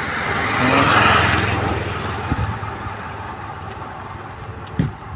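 A vehicle passing by: engine and road noise swells to a peak about a second in, then slowly fades over a low hum, with a couple of short knocks later on.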